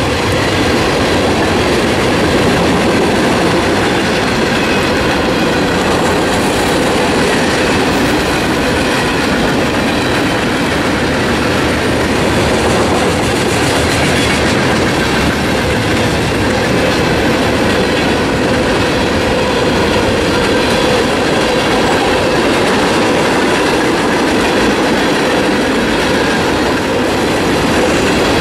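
Freight train cars rolling past close by: a steady, loud noise of steel wheels on the rails that holds unchanged throughout.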